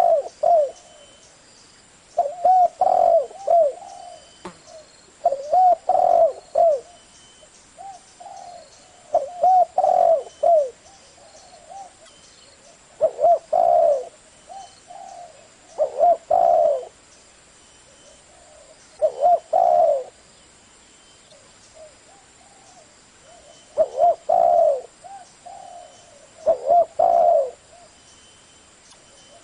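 Spotted dove cooing: short phrases of a few low, gliding coos, repeated about every three seconds.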